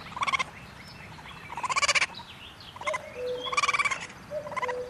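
Raccoon calling in several short, rapid trills or chitters, each under half a second, with gaps between them. A faint steady tone runs underneath from about three seconds in.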